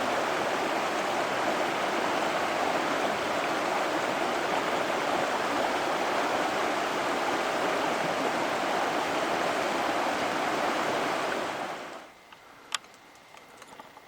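Steady rush of a mountain stream flowing over rocks, which cuts off abruptly about twelve seconds in. A much quieter stretch follows, with one sharp click and a few faint ticks.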